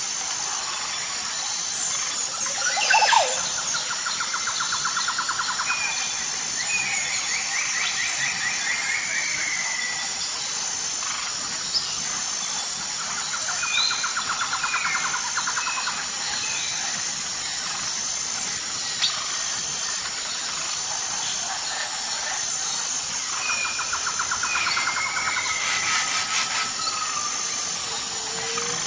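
Birds calling: three buzzy rattling trills about ten seconds apart, with short chirps and slurred whistled notes between them, over a steady high-pitched drone.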